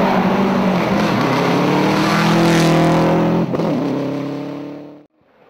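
Rally car engine under hard acceleration, revs climbing and then dropping sharply at an upshift about three and a half seconds in, fading as the car goes by. The sound breaks off suddenly about five seconds in and another car's engine starts to build.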